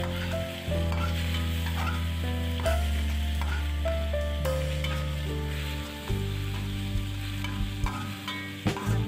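Minced garlic sizzling in hot fat in a wok while a metal spatula stirs and scrapes it, with occasional clicks of the spatula on the pan. Soft background music with sustained bass notes and a slow melody plays over it.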